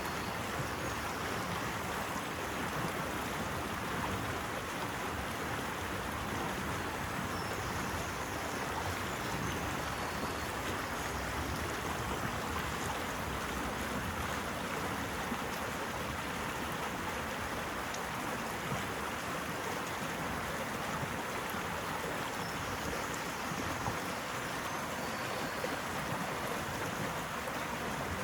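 Running water: a steady, even rush with no swells or surges.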